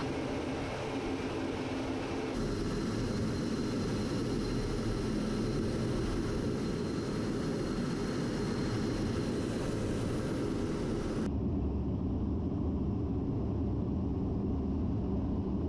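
Steady aircraft engine noise across cut-together clips. The sound changes character abruptly about two seconds in and again about eleven seconds in, ending as a duller rumble.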